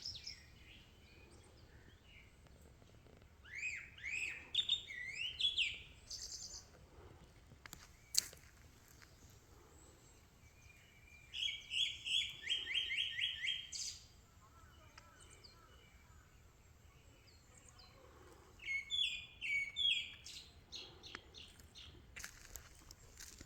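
A songbird singing in three separate bursts, each a quick run of repeated sliding whistled notes, the middle burst a fast string of about ten notes. A single sharp click comes about eight seconds in.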